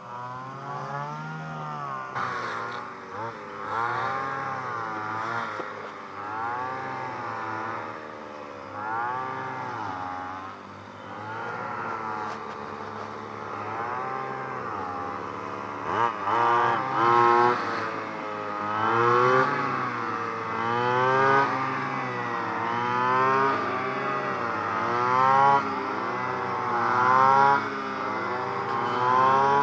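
Small brush-cutter (grass-cutter) engine rigged to thresh rice, running under load with its pitch rising and falling every second or two.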